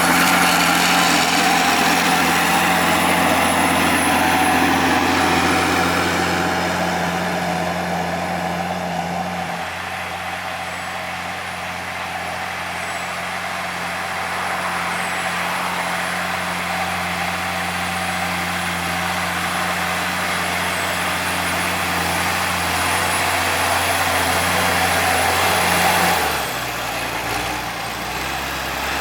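Farm tractor engine running at a steady speed, with a faint high-pitched whine over it. The sound is louder at first and eases a little. About three seconds before the end the engine note changes abruptly and the whine stops.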